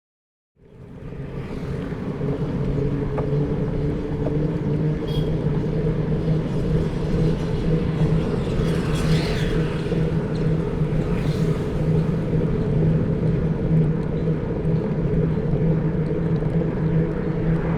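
A steady, loud low mechanical drone with a rumble, fading in over the first couple of seconds and holding level; a fainter higher sound passes about nine seconds in.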